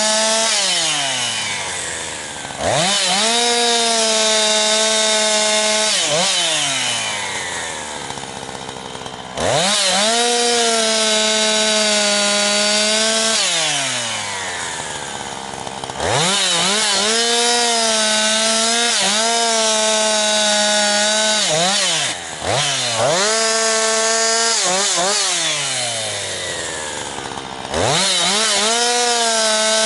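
Jonsered 2156 two-stroke chainsaw, its Walbro HDA199 carburettor freshly rebuilt, cutting firewood. It is held at full throttle for cuts of several seconds, its pitch wavering a little under load, then released so the engine winds down slowly before being throttled up again, about four times.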